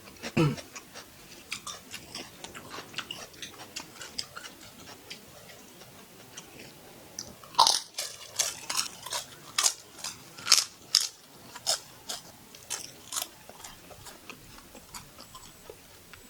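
Close-miked chewing of spicy beef fried rice: soft wet mouth clicks and smacks throughout, with a run of louder smacks in the middle.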